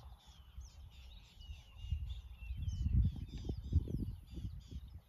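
Several wild birds chirping and calling, many short quick notes that glide up and down. Irregular low rumbling runs beneath them from about two seconds in until near the end.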